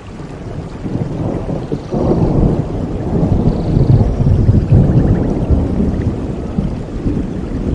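Thunder rumbling over steady rain, swelling about two seconds in and easing near the end.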